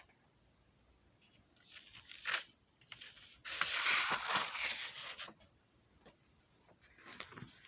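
Rustling and scraping handling noise in three bursts: a short one about two seconds in, a longer one lasting nearly two seconds in the middle, and a softer one near the end.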